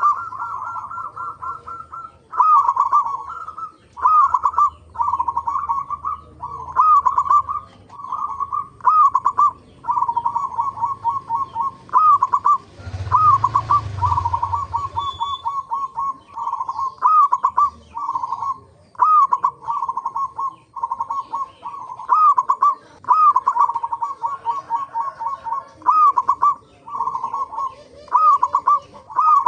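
Zebra doves (perkutut) singing: phrase after phrase of rapid bubbling coos, several birds overlapping. A short burst of noise with a low rumble comes about 13 seconds in.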